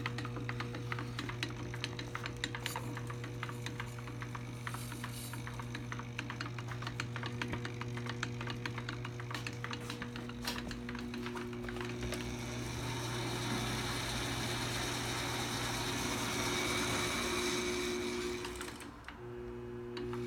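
Litton HSA glass lathe running under its electric motor: a steady motor hum with rapid, dense clicking and rattling from the running gear. About twelve seconds in, a louder hissing whir joins, then cuts off suddenly near the end.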